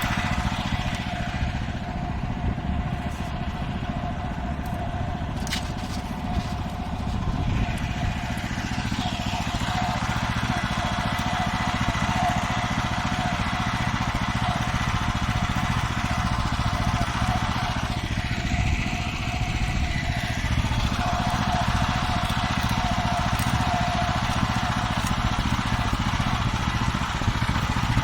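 Farmer 1511 walk-behind tractor's engine running steadily under way, with a constant whine over the engine note.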